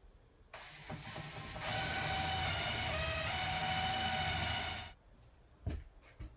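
Power drill running for about four seconds: it starts slowly, then runs at full speed with a steady whine that sags briefly in pitch partway through, as it would when the bit bites into wood, and stops about five seconds in. A couple of short knocks follow.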